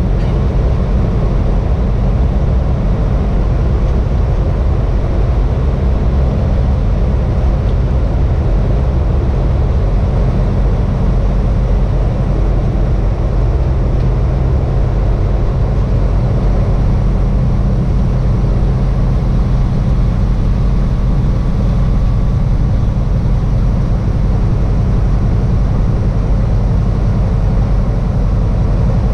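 Peterbilt semi truck's diesel engine running steadily at highway speed with road noise, heard from inside the cab.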